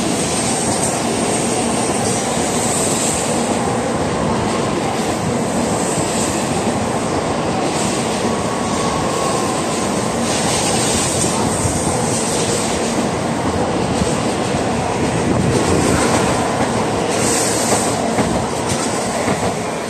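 N700A series Shinkansen train pulling out and running past close by, a steady loud rush of wheel, rail and running noise as it gathers speed, with repeated clicks of the wheels over the track.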